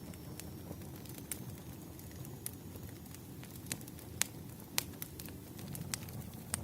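Wood fire burning: a steady low rumble of flames with sharp pops and snaps of burning firewood at irregular intervals, the loudest a little after four seconds in and just before five.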